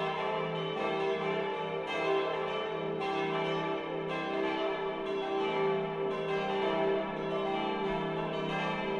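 Full peal of five bronze church bells cast in 1964 by Friedrich Wilhelm Schilling, tuned e', g', a', c'' and d'', swinging and striking in a continuous, irregular stream of overlapping strokes. Heard from outside the tower.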